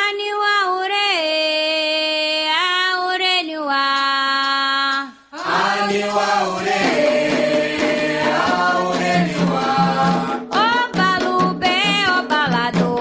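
An Afro-Brazilian devotional song to Xangô. A lone voice sings long, gliding notes unaccompanied, then about five seconds in drums and percussion come in with more voices singing together.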